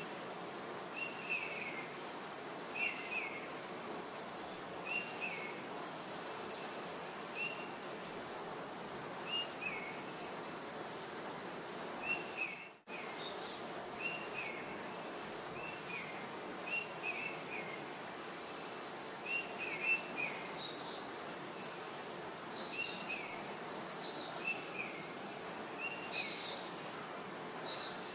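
A small bird's short, high chirps repeat every second or two over a steady background hiss, with a brief drop-out of all sound about halfway through.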